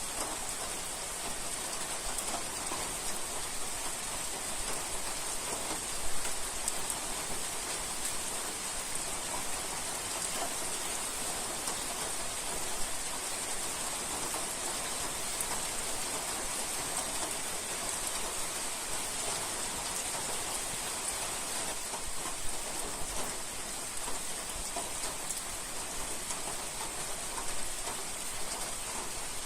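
Steady rain falling, an even hiss throughout, with a few single louder drop hits standing out now and then.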